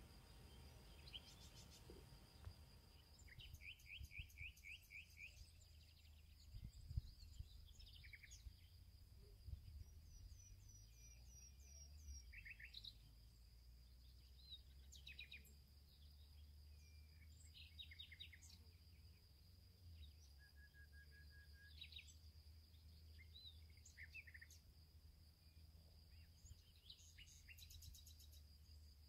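Faint natural ambience: scattered songbird chirps and short trills, with a steady faint high-pitched tone underneath.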